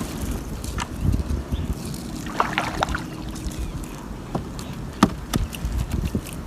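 Water sloshing and splashing around a small fishing boat at sea, over a constant low rumble, with scattered sharp knocks and a brief louder splash about two and a half seconds in.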